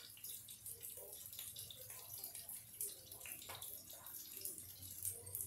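Onion slices sizzling and crackling in hot vegetable oil in a skillet: a faint frying hiss with scattered small pops, over a low steady hum.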